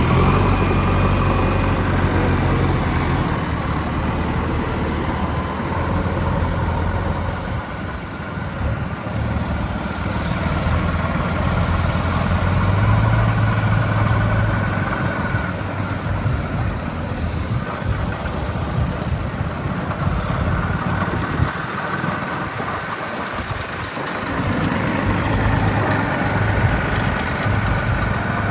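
Heavy diesel engine running continuously, its low note swelling and easing several times as the load on it changes.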